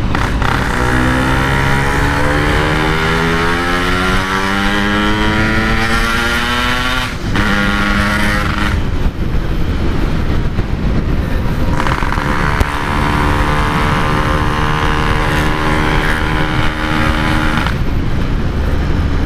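Yamaha RX-King's 135 cc two-stroke single-cylinder engine, breathing through a 'standart belek' Packing Power exhaust, accelerating under load: its pitch climbs for about seven seconds, dips briefly at a gear change, climbs again, then holds a steady high note before easing off near the end.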